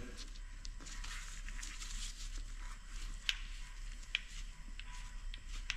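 A few faint, light clicks and taps of a governor core's metal parts being handled, over a steady low hiss and hum.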